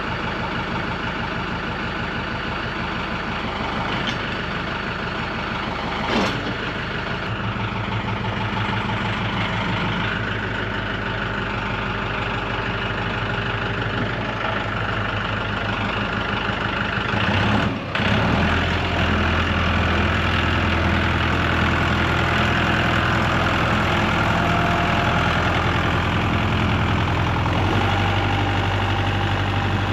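Tractor engine idling steadily as it warms up after starting. About two-thirds of the way through it dips briefly, then carries on with a louder, deeper hum.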